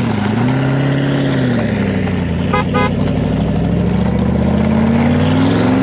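Vehicle engine running, its pitch dipping and then climbing as if revving, with a brief horn toot about two and a half seconds in.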